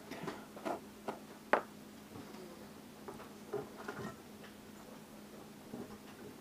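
A scattering of light taps and clicks, irregular and about ten in all, mostly in the first four seconds, with the sharpest one about a second and a half in. They are small hard objects being handled as the ring pattern is worked out of a sand-casting mold.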